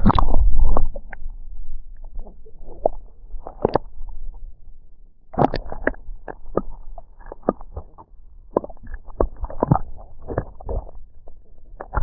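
Irregular knocks, taps and small watery sounds of handling on a kayak while a catfish is released, with a loud low rumble in the first second.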